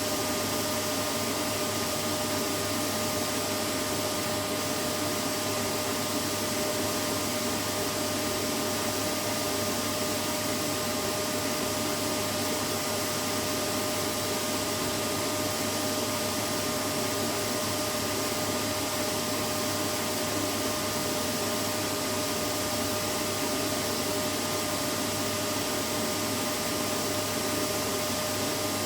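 Vacuum cleaner running steadily: an even motor hum and rushing air with a constant high whine, no change in pitch or level.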